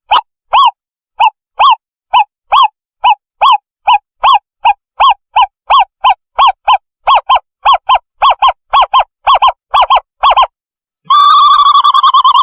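Owl call played as a bird-hunting decoy: a long series of short, arched hooting notes, starting at about two a second and speeding up. After a short break near the end it switches to a fast, continuous trill.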